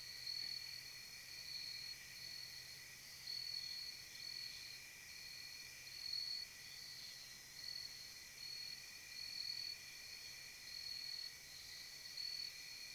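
Crickets and other insects chirping in a steady night chorus: a continuous high trill that swells and fades in short pulses, with a lower steady drone beneath it.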